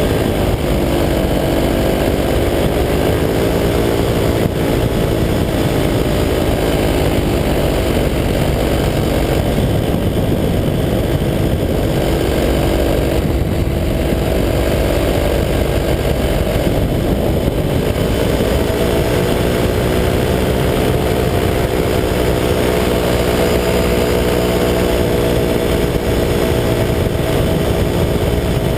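185 cc two-stroke paramotor engine and propeller running in flight at cruise throttle. The engine note shifts with the throttle: it sits lower through the middle and climbs again about two-thirds of the way through, over a steady rush of air noise.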